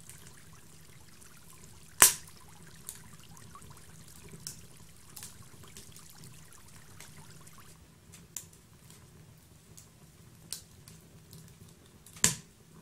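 Fire crackling: a faint steady rumble with scattered sharp pops, two loud ones about two seconds in and near the end.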